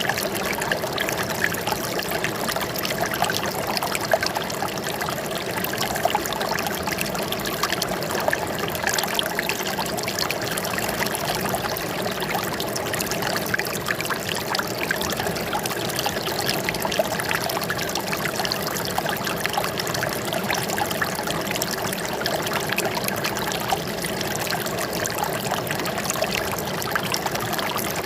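Running water trickling and splashing in a steady flow.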